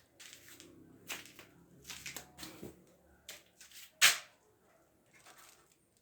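Irregular rustling and clicking handling noises, with one much louder sharp snap about four seconds in.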